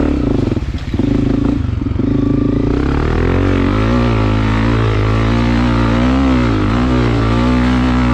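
Dirt bike engine running hard up a hill climb, its revs rising and falling repeatedly with the throttle through the second half.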